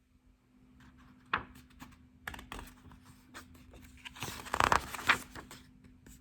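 Handling of a paper book: scattered light taps and clicks, with a louder rustling burst about four and a half seconds in.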